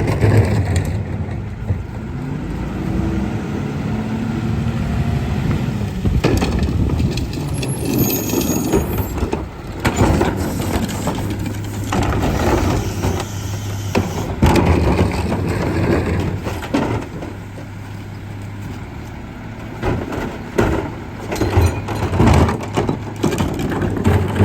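Garbage truck at work: its engine runs steadily under many sharp knocks and bangs from bins and trash, with the engine tone rising a few seconds in.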